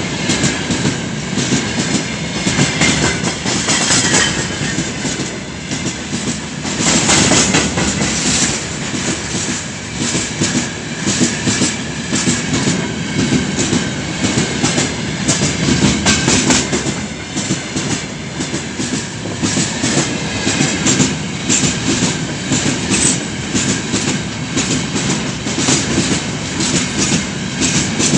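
Freight train rolling past, its wheels clattering steadily over the rail joints, with a faint high wheel whine now and then.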